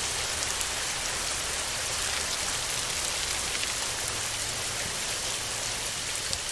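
Steady heavy rain: an even hiss with many sharp single drop hits through it.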